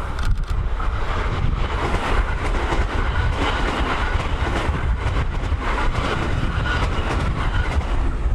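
Tobu 70000 series electric train passing on the rails, its wheels and running gear making a steady noise. Heavy wind buffets the microphone underneath.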